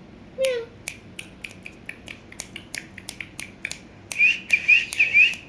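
Pet parrot giving a short falling call, then a string of sharp clicks. Near the end comes a quick run of warbled chirps.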